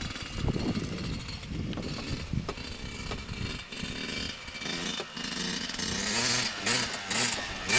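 Dirt bike engine running, a buzzy two-stroke-like motor sound; music with rapped vocals comes in near the end.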